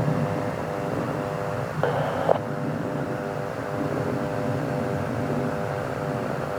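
Aircraft engines running with a steady drone and a layered hum of several pitches. A brief burst of noise comes about two seconds in.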